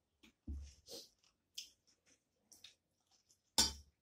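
Close-miked chewing as a person eats a mouthful of rice and greens: a few short, soft mouth sounds, then a louder, sharper one near the end.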